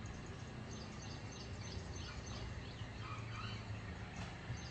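Birds chirping in the forest: clusters of short, high, quickly falling chirps, repeated over and over, over a steady low rumble of outdoor background noise.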